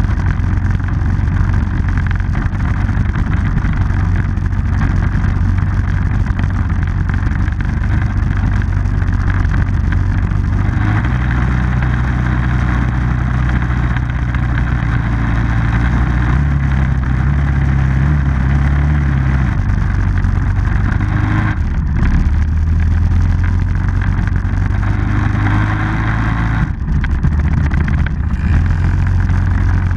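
Small off-road vehicle engine running as it is ridden, with a constant rushing noise over it. The engine note steps up about a third of the way in, climbs higher a little past the middle, then drops back down.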